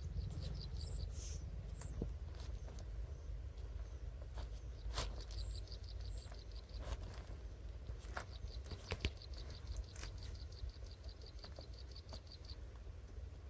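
Runs of rapid, evenly spaced high chirps like an insect's call, starting and stopping several times, over a steady low rumble with scattered clicks.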